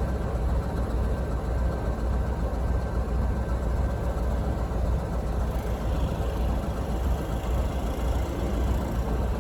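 KTMB Class 26 'Blue Tiger' diesel-electric locomotive's engine running steadily, a low, even rumble.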